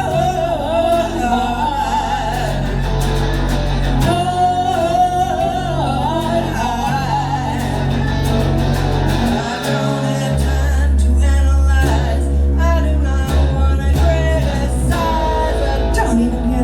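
Live band playing a song: guitar and a steady bass line, with a wordless vocal melody in the first half and drum hits more prominent in the second half.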